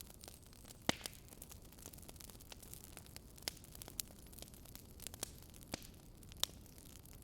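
Campfire crackling: irregular sharp pops and snaps over a steady low hiss, with one louder pop about a second in.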